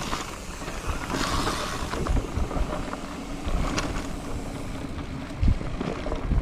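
Wind rushing over a moving rider's camera microphone, with scattered knocks and thumps from riding over a rough trail.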